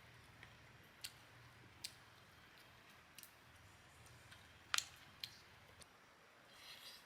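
Faint scattered clicks and snaps, about half a dozen, with one sharper snap near the five-second mark, over a faint low hum that fades out near the end.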